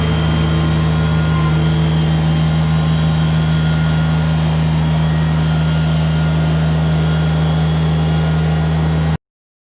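New Holland Workmaster 25S compact tractor's diesel engine running at a steady speed, a constant low drone that cuts off suddenly about nine seconds in.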